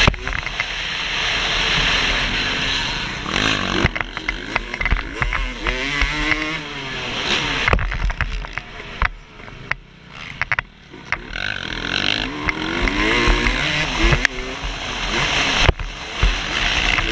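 A 2008 Suzuki RM250's two-stroke single-cylinder engine revving hard and backing off as it is ridden round a motocross track, its pitch rising and falling several times. Short knocks and rattles are mixed in throughout.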